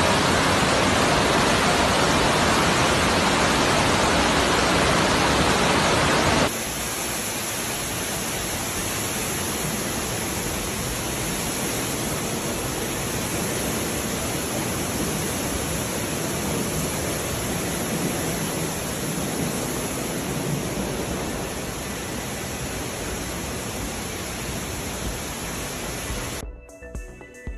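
Steady rushing noise of a heavy rainstorm with running water, cutting about six seconds in to a second, somewhat quieter recording of the same. Music comes in near the end.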